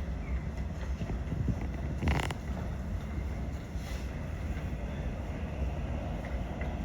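Steady low rumble of distant airliner jet engine noise mixed with wind buffeting the microphone, with a brief gust about two seconds in.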